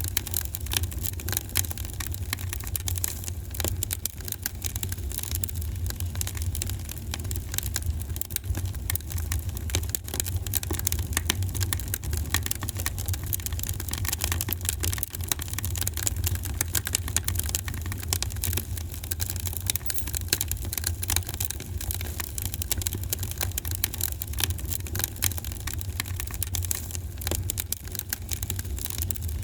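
Wood fire in a fireplace crackling: a constant patter of small pops and snaps over a steady low rumble of the flames.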